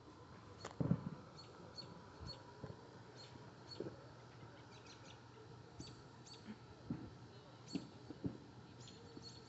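Short, high-pitched chirps repeating irregularly, with a few dull low thumps, the loudest about a second in.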